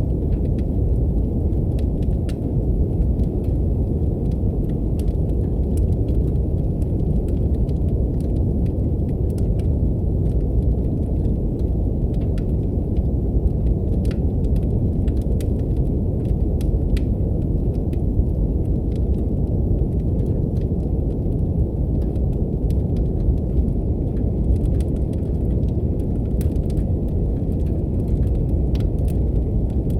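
Brown noise: a deep, even rush that fills the whole stretch, with the crackle of a wood fire in a fireplace laid over it as many small, scattered pops and snaps, much fainter than the noise.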